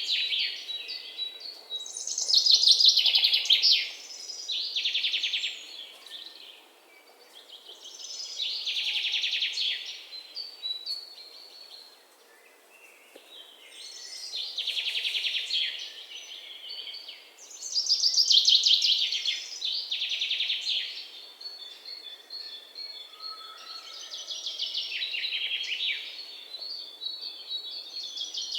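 Songbirds singing: high, rapid trilled phrases of one to three seconds each, recurring every few seconds.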